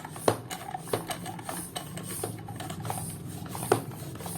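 A freshly repaired Giyo floor pump worked by hand to inflate a tire: rhythmic strokes about one and a half a second, each with a click and a rush of air. The pump is now building pressure in the tire instead of leaking.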